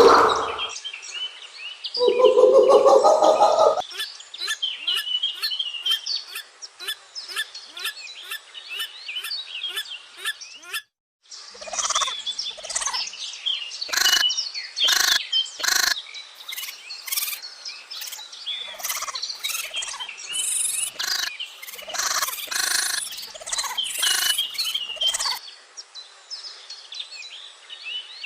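Birds chirping and calling, with a louder, lower call about two seconds in. After a brief cut partway through, the chirping grows busier with sharp clicks mixed in, then thins out near the end.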